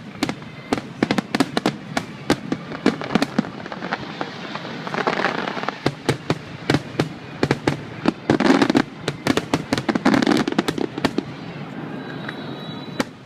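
Fireworks going off in quick succession: a dense run of sharp bangs and crackles, thickest about halfway through and again near the end, dying away about two seconds before the end.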